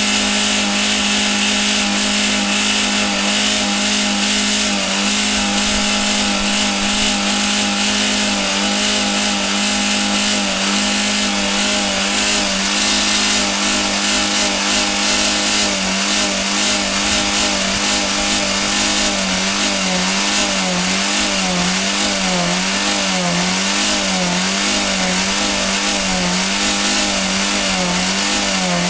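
Skoda engine held at high revs with a steady drone while being run to destruction with a dry cooling system and minimal oil. About two-thirds of the way through, the revs begin to rise and fall in a regular wobble roughly once a second.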